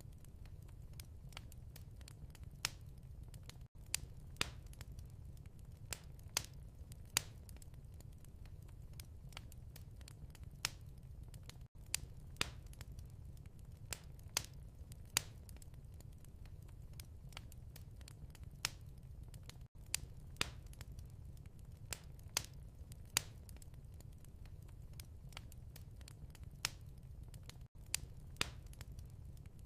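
Wood fire crackling: irregular sharp pops and snaps over a steady low rumble of the flames, with a brief dropout about every eight seconds.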